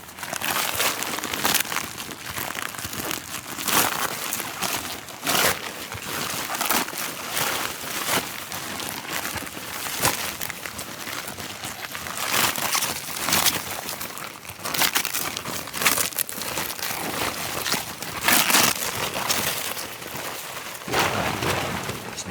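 Irregular crinkling and rustling in repeated bursts, like crisp fabric or dry material being handled or crushed.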